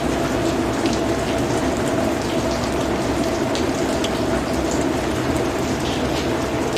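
Steady rainforest rain, with individual drops ticking sharply here and there over the even hiss of the downpour.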